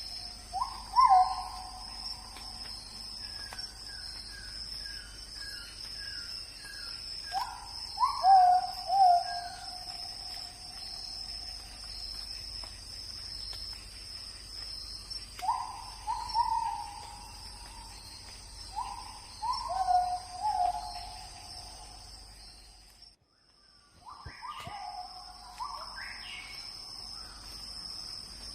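Night forest wildlife: a steady high insect chorus, with an animal repeating loud calls in clusters every few seconds, each call sweeping up and then holding. A run of about eight quick chirps comes a few seconds in.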